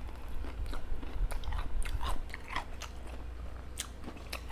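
Close-up chewing and biting on homemade sardine fish balls: irregular wet mouth clicks and smacks.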